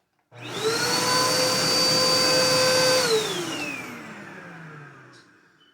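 Vacuum cleaner switched on, its motor whine rising to a steady pitch, then switched off about three seconds in and winding down with a falling whine that fades away.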